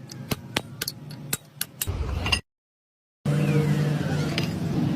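A run of sharp metallic taps, roughly two to four a second and uneven. The sound then drops out briefly to silence and gives way to a steady low engine-like hum, with a short falling whine just after it starts.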